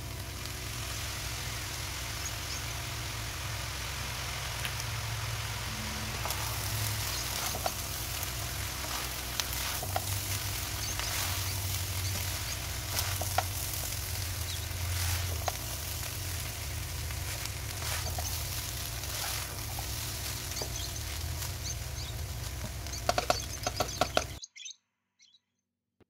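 Fried rice sizzling steadily in a hot wok as it is stirred and tossed, with the spatula scraping and knocking against the pan now and then. There is a quick run of clatters, then the sound cuts off suddenly near the end.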